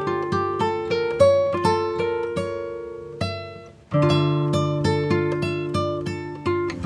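Background music: plucked acoustic guitar playing a flowing pattern of single notes and chords, with a brief pause about four seconds in.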